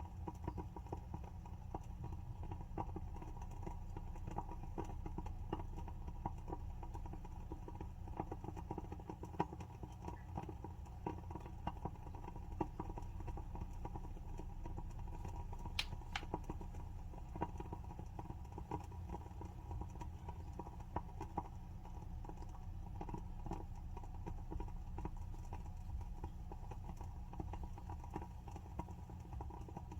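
WoodWick candle's wooden wick burning with a continuous soft crackle of small, irregular pops, and one sharper pop about halfway through.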